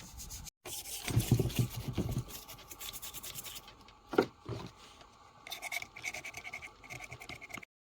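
Scratching and handling noises from fuel-pump parts being worked on by hand, with a single sharp knock about four seconds in and a run of quick scraping strokes near the end.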